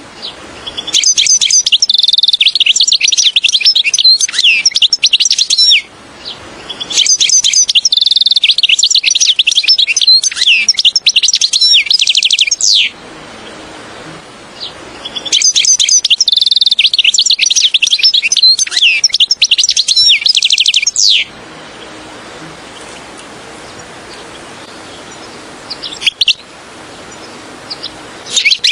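European goldfinch song: three long bouts of rapid, liquid twittering and trills, each several seconds long with short pauses between. After them come only a couple of brief calls near the end.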